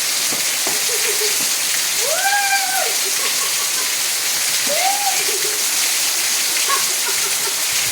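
Steady, loud rain falling. Over it, a voice calls out briefly a couple of times.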